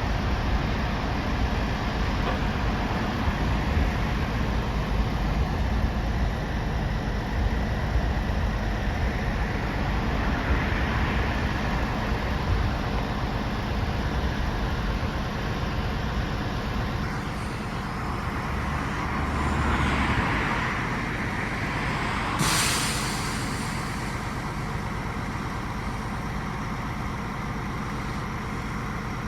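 Heavy truck's engine running steadily, swelling briefly, then a single short, sharp hiss of air about two-thirds of the way through, like an air brake being released.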